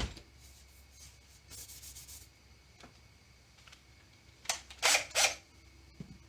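Workshop handling noise: a sharp click at the start, then three short scraping strokes about four and a half to five and a half seconds in.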